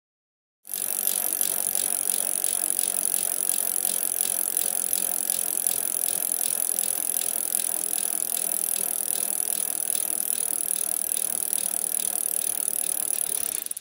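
A fast, steady mechanical clicking and rattling that starts about a second in and stops abruptly near the end.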